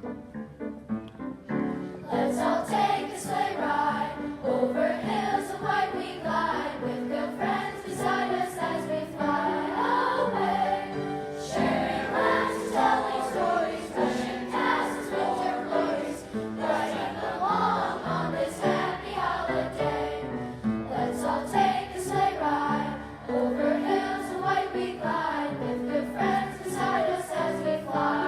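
A choir of schoolchildren singing a song with musical accompaniment. It is softer for the first couple of seconds, then the full choir comes in.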